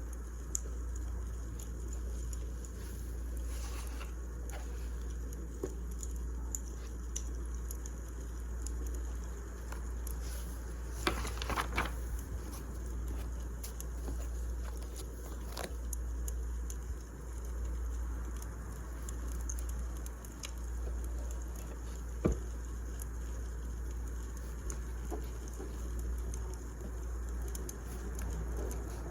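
Firewood burning in a fireplace: a steady low rumble and hiss with scattered small crackles, a burst of louder crackling about eleven seconds in and one sharp pop a little past twenty seconds.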